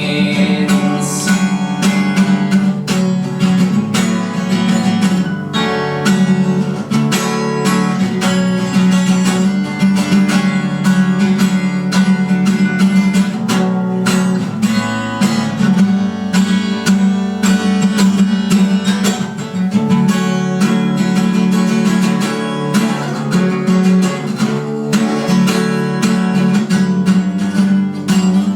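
Instrumental passage of a song with no singing, led by a strummed and picked acoustic guitar, playing steadily.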